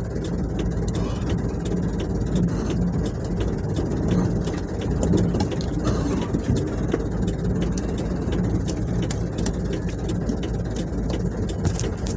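Truck engine running steadily at low revs, with irregular light clicks and rattles throughout.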